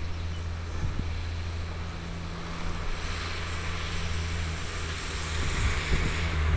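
A steady low engine hum, with a rising hiss of noise joining it in the second half.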